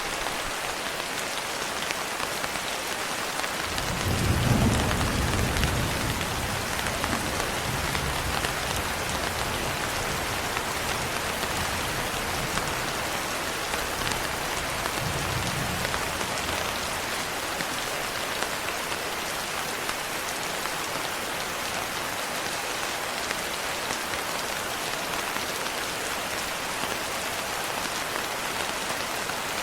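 Steady rain falling, with a roll of thunder that starts suddenly about four seconds in, is loudest at first and fades out over the next ten seconds or so.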